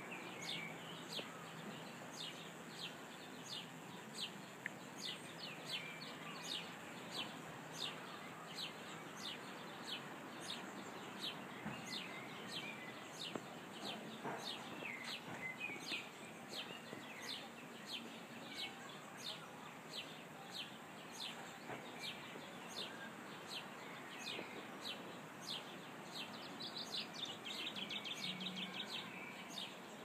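A bird repeating a short, sharp chirp at a steady pace of about one and a half a second, over a faint steady background hiss, with a quick flurry of chirps near the end.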